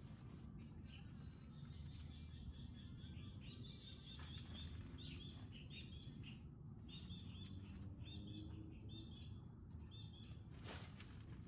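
Faint bird chirping: a quick series of short, repeated calls over a steady low background rumble.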